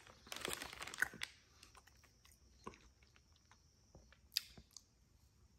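Quiet close-up chewing of a soft blueberry muffin, with scattered small wet mouth clicks and one sharper click about four seconds in.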